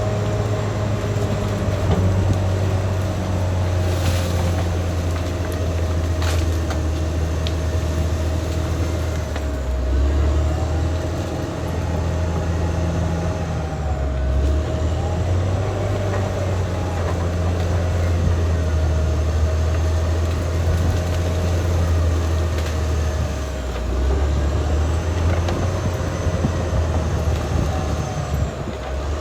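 Caterpillar D6R XL bulldozer working, its diesel engine running with a deep steady drone that eases and picks up a few times, and its steel tracks squealing and clanking. A couple of sharp cracks come through about four and six seconds in.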